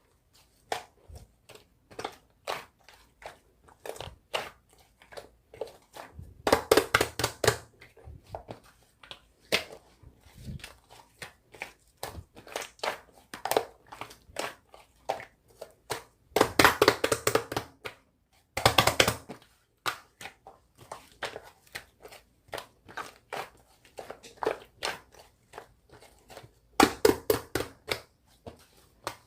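Slime being squeezed and kneaded by hand, giving many sharp clicks and pops with several short bursts of dense crackling.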